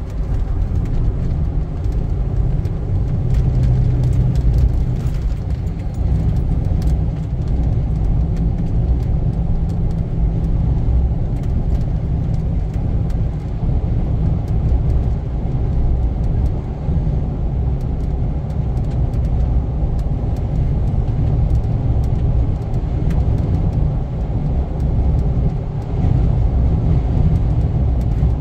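A car on the move, its engine and road noise making a steady low rumble.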